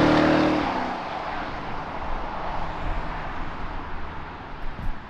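Mercedes ML63 AMG V8 moving away: its engine tone drops out within the first second, leaving a rushing noise that fades steadily as the car recedes.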